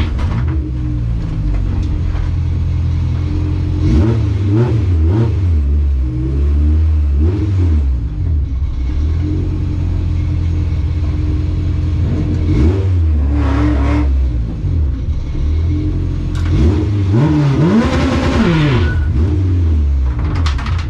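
Drag car's engine heard from inside the cabin, running with a steady drone and revved up and back down several times.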